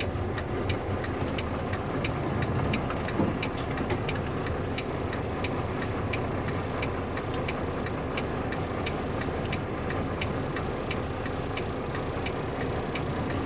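Semi truck's diesel engine idling steadily, heard from inside the cab, with a flasher ticking evenly about twice a second.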